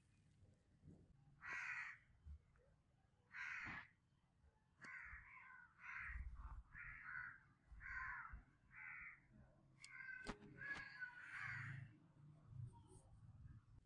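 A bird's harsh calls, faint, about a dozen short calls in a row, most in a quick run through the middle, with a couple of light clicks about ten seconds in.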